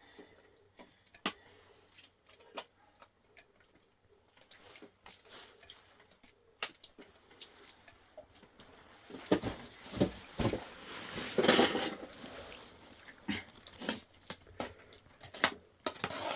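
Scattered light knocks and clatter of objects being handled, with a busier, louder stretch of clatter and rustling about nine to twelve seconds in.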